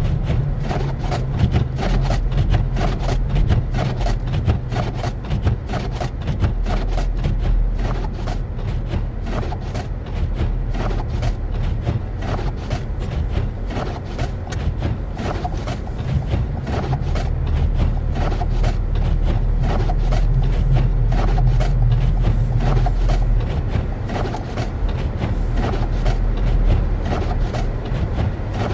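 Car driving on a snowy road: a steady low rumble of engine and tyres, with many small irregular clicks and crackles throughout.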